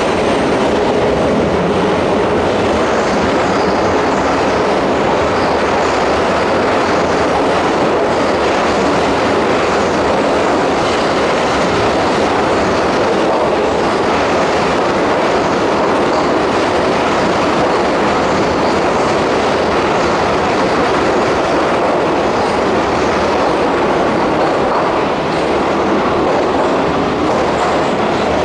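Keihan electric commuter train running along the platform of the underground Yodoyabashi terminal, a loud, steady rumble of wheels on rails.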